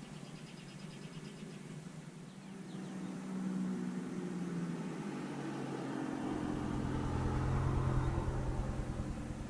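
A car driving past, its engine and tyre rumble building over several seconds, loudest near the end, then beginning to fade.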